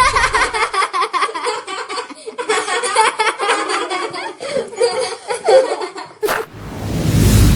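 Laughter: a rapid run of giggling syllables for about six seconds, cut off by a sharp hit, followed by a swelling rush of noise.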